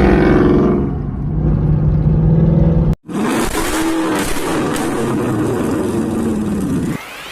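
Ford Mustang GT's V8 running loud through an aftermarket exhaust. A rev falls away in the first second and settles into a steady drone. After an abrupt cut, the car is heard driving, its engine note rising and falling.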